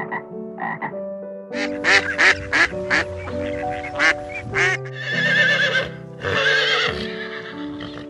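A tree frog calling in a quick series of short, repeated croaks. About five seconds in it gives way to a flock of mallard ducks quacking.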